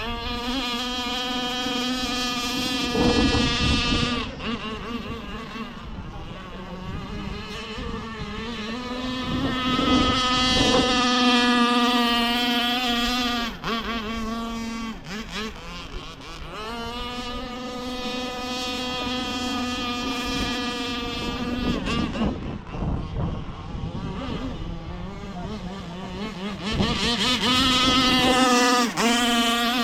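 33cc engine of a radio-controlled racing boat running hard with a high, buzzing note. The revs climb and drop again several times as the throttle is opened and eased, loudest about three seconds in, around ten to twelve seconds in and near the end.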